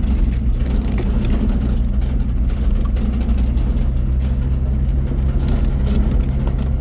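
Motor vehicle engine running steadily, a low hum with no change in pitch.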